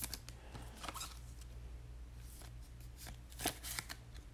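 Trading cards being handled and slid against each other, with faint scattered clicks and rustles and a small cluster near the end, over a steady low hum.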